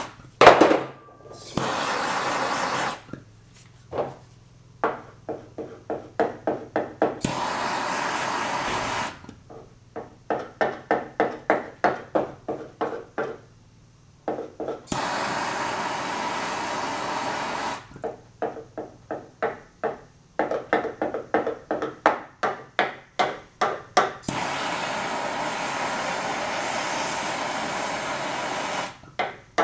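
Bursts of steady hissing that start and stop sharply, a few seconds each, alternate with runs of short rhythmic strokes at about two to three a second. This is the sound of lead body solder being heated and worked on a car body panel.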